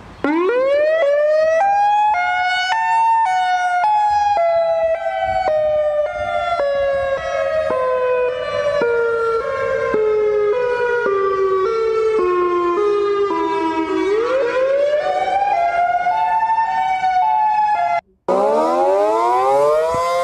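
Tornado warning siren wailing. It winds up quickly to a high pitch, sinks slowly in small steps over about fourteen seconds, winds up again, cuts off abruptly about eighteen seconds in, then starts winding up once more.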